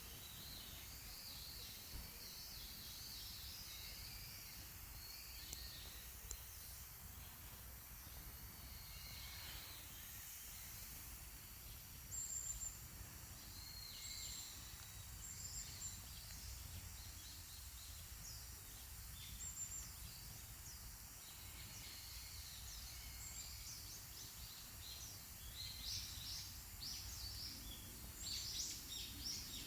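Small birds chirping and calling in short, high notes, busiest near the end, over a low, steady background rumble.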